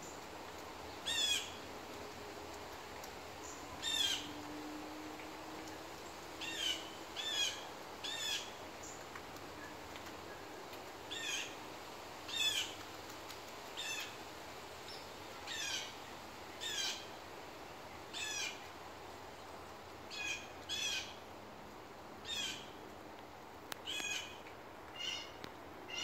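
A bird giving short, high calls, one at a time, repeated about every one to two seconds.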